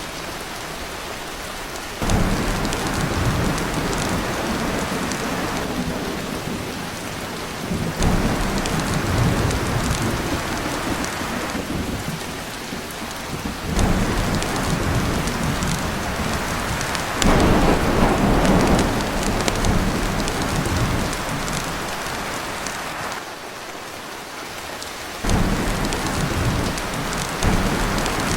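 Heavy rain pounding steadily on a tin roof, with about five rolls of thunder that each come in suddenly, rumble low for several seconds and die away.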